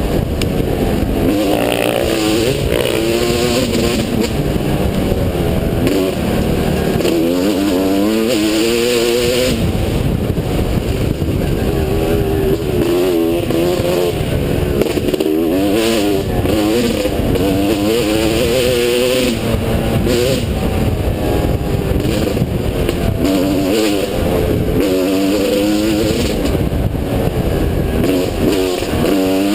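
Motocross bike engine revving hard, its pitch climbing and dropping over and over with throttle and gear changes, over a steady loud rumble.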